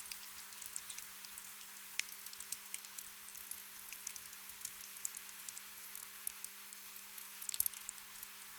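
Gentle rain: a soft steady hiss with scattered individual drops ticking. A quick flurry of louder drips comes near the end.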